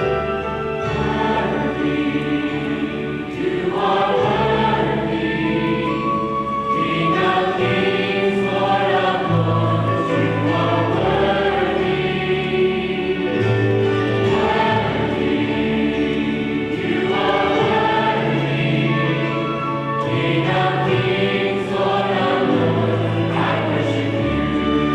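A choir singing with instrumental accompaniment, sustained low bass notes shifting every second or two beneath the voices.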